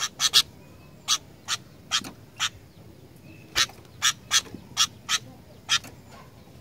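Sooty-headed bulbul (kutilang) calling: a string of short, sharp notes, about a dozen, spaced irregularly with some in quick pairs.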